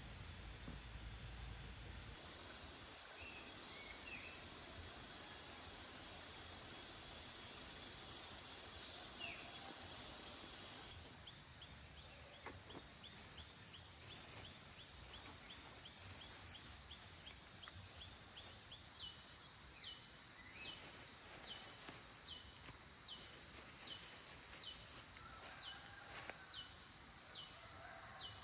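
Outdoor insect chorus: a steady high-pitched insect drone, with a short falling call repeating from about the middle onward.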